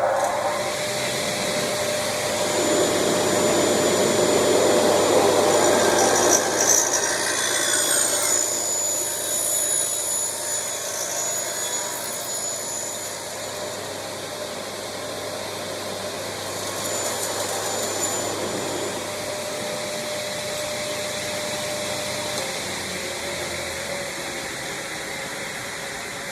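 A 355 mm aluminium cut-off saw with a 1.1 kW motor running with a steady whine while its blade cuts through an aluminium profile. The cut is loudest between about three and eight seconds in, then the saw runs on more quietly.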